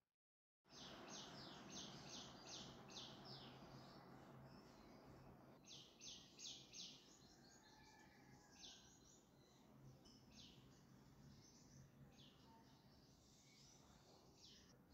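Faint chirping of small birds in quick runs of short, high notes over a low steady hum.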